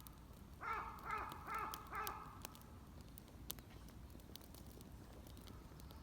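A bird calling four times in quick succession, each call about half a second apart, a little after the start.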